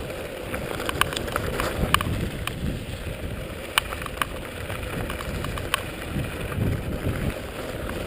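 Mountain bike rolling fast down a dirt trail: rumbling tyre noise and wind on the microphone, with scattered sharp clicks and rattles from the bike over bumps.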